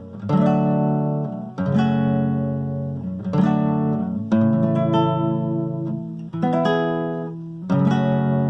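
Acoustic guitar strumming a slow chord progression: six single strums, each chord left to ring and fade before the next, about every one to two seconds.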